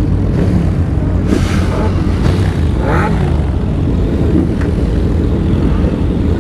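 Motorcycle running on the move, a steady loud engine drone mixed with rushing wind noise on the microphone.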